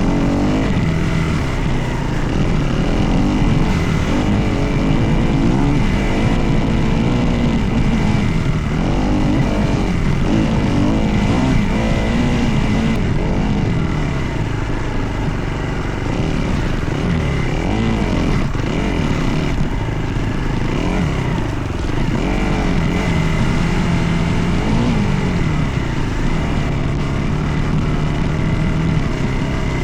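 Dirt bike engine revving up and down over and over, its pitch rising and falling with throttle and gear changes while riding.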